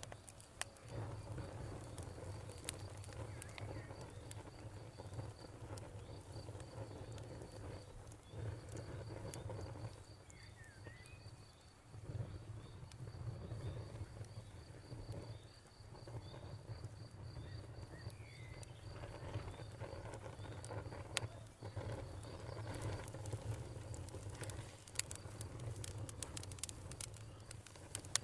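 Campfire crackling with scattered sharp pops, busier near the end, over a cricket chirping in a steady rapid pulse.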